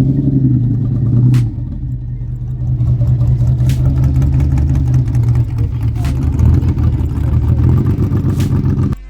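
A car engine running steadily with a deep, even drone; it eases off about a second and a half in and picks back up a second or so later.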